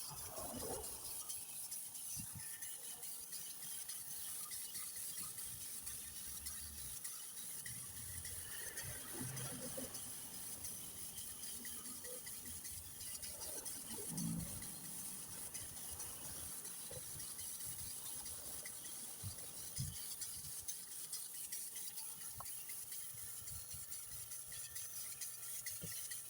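Paint being applied to a motorhome's body panel, a steady rubbing and rasping of the applicator against the surface.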